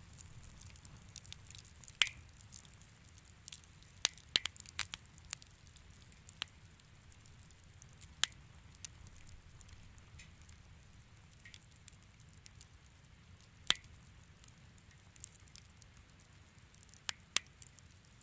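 Wood fire crackling in a fireplace: scattered sharp pops and snaps, a quick cluster of them about four seconds in, over a soft low rumble of the burning fire.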